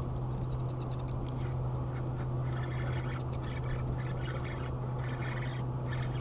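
Boat motor humming steadily at one low pitch, with scattered brief higher-pitched sounds over it from about a second and a half in.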